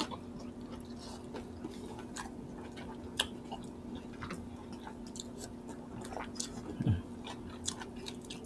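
Close chewing and wet mouth smacks of people eating boiled chicken with their hands: many short irregular clicks, one sharper click about three seconds in, over a faint steady hum.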